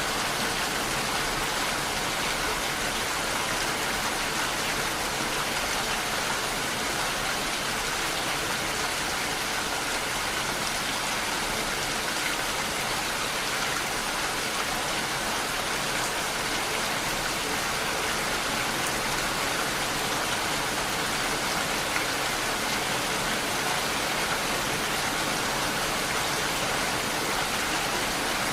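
Steady rain falling, an even hiss of drops on surfaces with no breaks or thunder.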